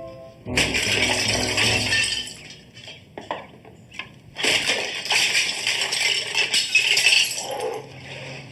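Two loud bursts of crashing and smashing, about half a second in and again after about four seconds, with clinking debris, like glass breaking and scattering.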